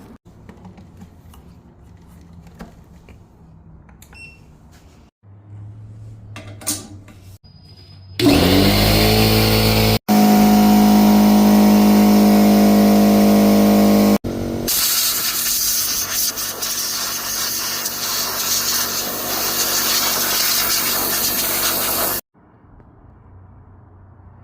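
Electric motor of a cleaning tool spinning up with a quickly rising whine, then running steadily and loud. This is followed by a long, loud, even hiss of a cleaning jet that cuts off abruptly. Before it there are only faint scattered ticks and a low hum.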